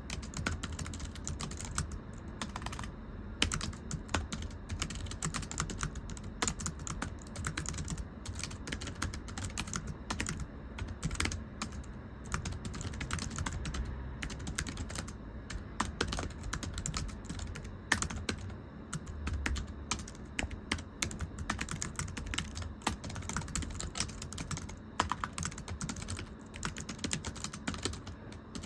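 Continuous typing on a thin, low-profile computer keyboard: many quick, light key taps, a flat slapping 'pechi-pechi' rather than a deep clack.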